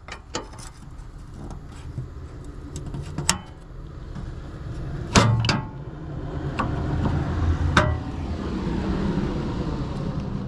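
Sharp metal clicks and clunks of excavator access panels and their latches being handled, half a dozen spread out, the loudest about halfway, over a low rumble that swells about four seconds in and holds steady.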